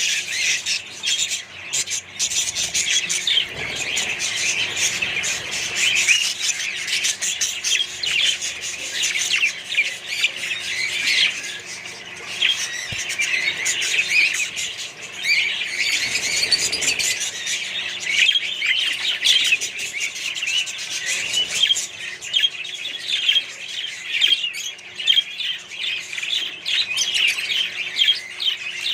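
A colony of budgerigars and other parrots chattering and squawking continuously, many short high calls overlapping.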